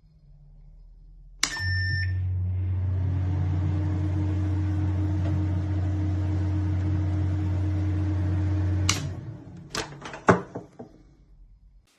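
Microwave oven beeps once and starts up, then runs with a steady electrical hum for about seven seconds before it cuts off, followed by a few sharp clicks and knocks. This is a new microwave that the owner says counts down without heating or turning its plate.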